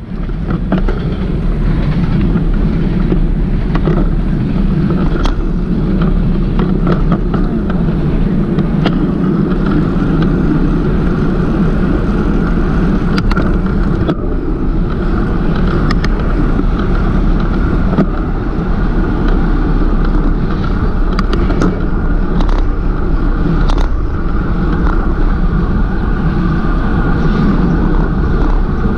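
Steady rushing road and wind noise from riding a bicycle, with scattered short clicks and knocks from bumps.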